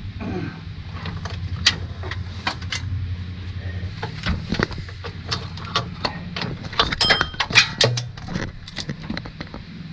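Irregular metallic clicks and clinks of hand tools working on engine bolts, busiest about seven to eight seconds in, over a steady low hum.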